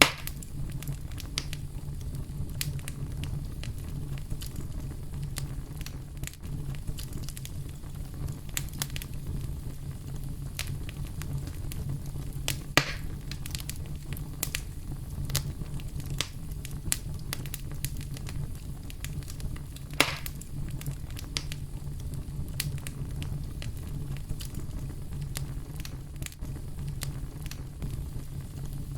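Campfire crackling with frequent small snaps and two louder pops, over a steady low rumble of brown noise.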